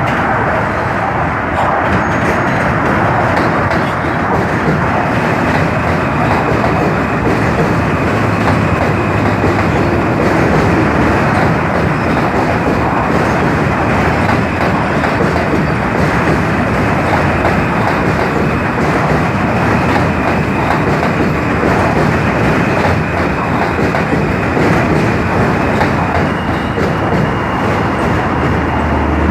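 New York City subway train running past at speed: a loud, steady rumble of steel wheels on the rails with rapid clicking over the track. A faint high steady tone sounds near the end.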